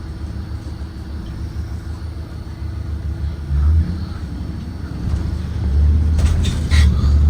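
Propane-powered 2023 Blue Bird Vision school bus running with a steady low rumble. A brief higher-pitched rattle or squeal comes near the end.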